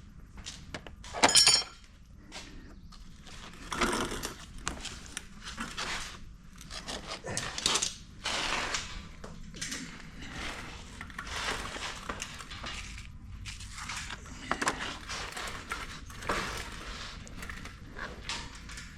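A sharp metallic clang about a second in, then irregular knocking and scraping of steel being handled.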